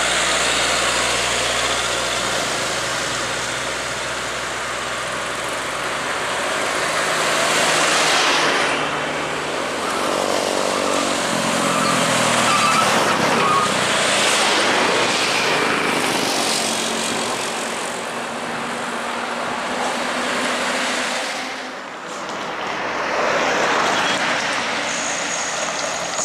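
Highway traffic on an uphill grade: trucks and other vehicles passing one after another, their engine and tyre noise swelling and fading several times.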